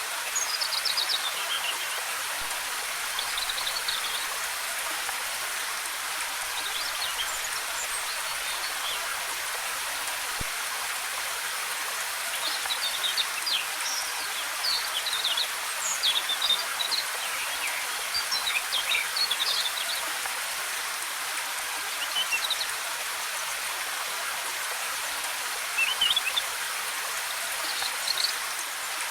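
Waterfall rushing steadily, with songbirds chirping over it in short scattered bouts, busiest in the middle and again near the end.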